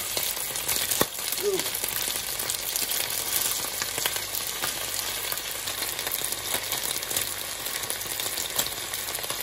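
Chicken wings sizzling as they fry in olive oil in a pan, a steady hiss, with a few sharp clicks of tongs against the pan as the wings are turned.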